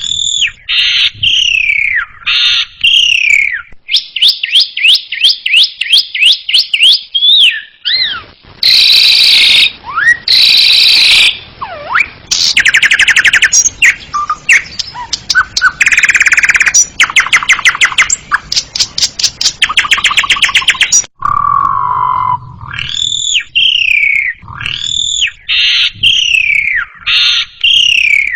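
Asian pied starling singing a long, varied song. Repeated falling whistles open and close the passage. In the middle come fast rattling trills, harsh squawks and long buzzy chattering runs.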